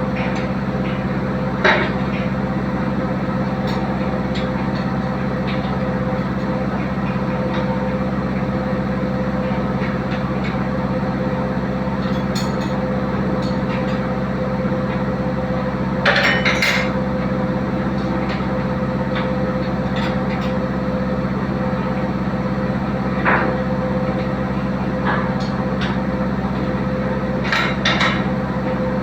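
Steady hum of a running machine, with a few sharp metallic knocks: one about two seconds in, a cluster around the middle, and more near the end.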